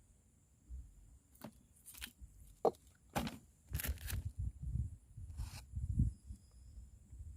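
Wind buffeting the microphone in an uneven low rumble, with half a dozen scattered short knocks and rustles, as of handling gear or a caught fish.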